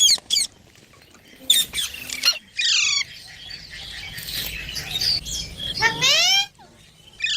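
Baby Indian ringneck parakeet chirping and squawking in a run of short calls, several sliding steeply in pitch, with a longer rising call about six seconds in.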